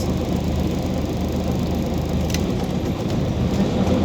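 Scania OmniCity city bus's diesel engine running with a steady low hum. A click comes about two and a half seconds in, the hum eases, and it picks up again near the end.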